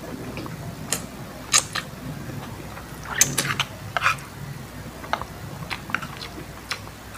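Close-up mukbang eating sounds: spaghetti carbonara being chewed, with irregular sharp mouth clicks and smacks.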